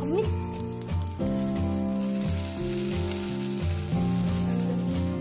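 Potato fingers coated in egg and rusk crumbs frying in hot oil, a steady sizzle, under background music with a repeating bass line.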